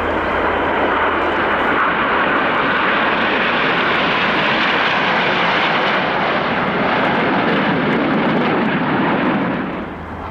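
Aermacchi MB-339 jets flying past: a loud, steady rush of jet noise that dies down near the end.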